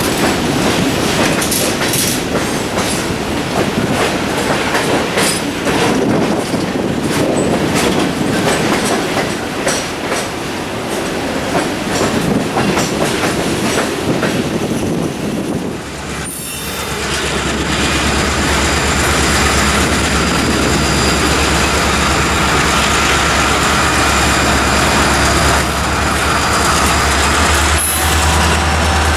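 Freight cars rolling past with wheels clicking over rail joints and some wheel squeal. About halfway through this gives way to the steady low drone of a diesel locomotive engine running.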